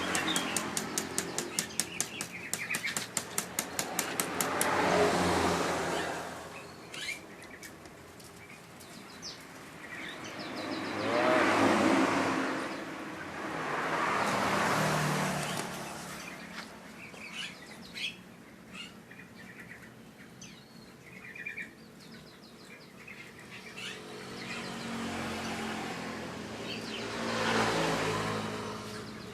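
A fast run of even clicks for the first few seconds, then vehicles passing by one after another, each rising and fading away, with small birds chirping between them.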